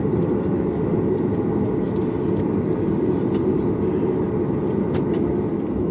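Steady low rumble inside a Boeing 737's passenger cabin, with the engines running as the airliner taxis after landing. Faint light clicks and rattles sound here and there.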